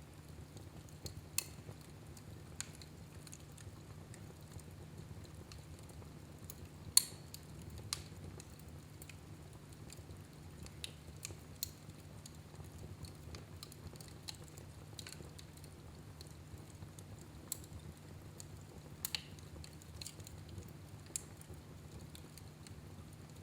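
Wood fire crackling in a fireplace: scattered sharp pops and snaps, the loudest about seven seconds in, over a steady low hum.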